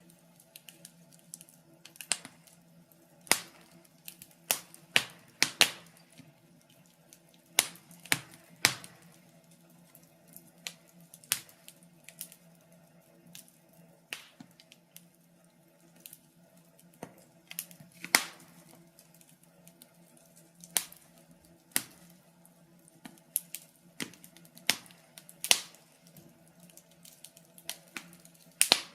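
Wood fire crackling in a fireplace: irregular sharp pops and snaps, roughly one a second, over a faint steady hum.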